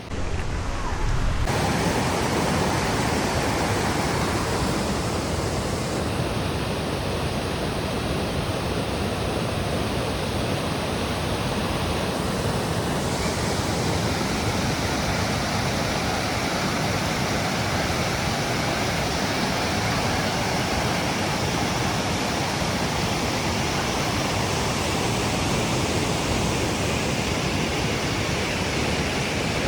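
Steady rush of a waterfall's falling water, an even noise at constant level that comes in abruptly at the start.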